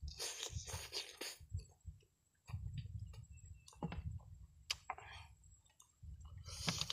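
A person chewing boiled chicken close to the microphone: scattered wet clicks and smacking mouth sounds, with a short pause about two seconds in.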